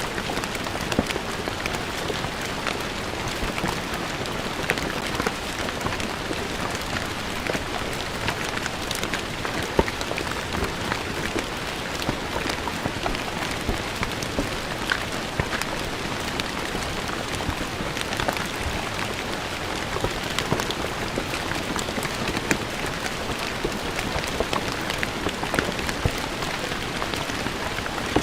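Steady rain falling on a stone floor, a dense even patter of drops with individual drop hits ticking sharply.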